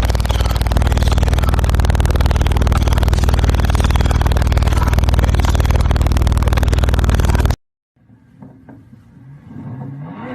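Loud car engine held at steady high revs, with no rise or fall in pitch; it cuts off abruptly about three-quarters of the way through.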